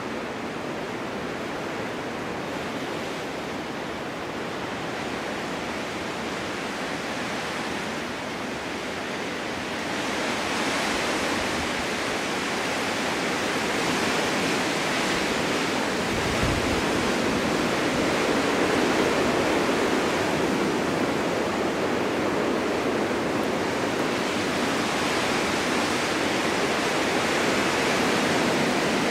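Winter wind blowing steadily through a snowy forest, rising in a gust about a third of the way in and staying strong, with a brief low rumble of wind on the microphone in the middle.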